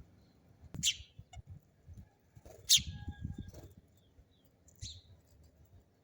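Sparrow chirping: three short, sharp chirps about two seconds apart, over low thumps.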